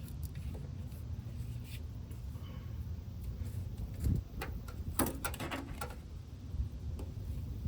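Scattered clicks and knocks of hand tools working on a truck's brake-line fitting, bunched together about four to five and a half seconds in, over a steady low rumble.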